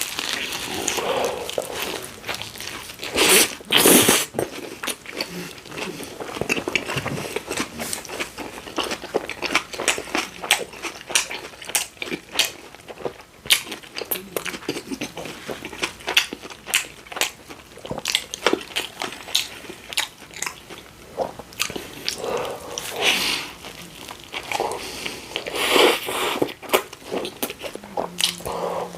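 Close-up eating sounds: a person biting into and chewing a Subway sweet onion teriyaki chicken sub. Many small wet mouth clicks run throughout, with two loud bites about three and four seconds in.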